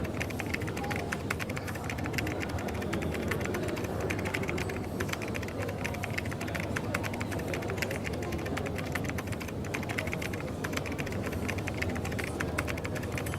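Computer keyboard being typed on steadily, a fast run of light key clicks, over a steady background hum and murmur of coffee-shop noise.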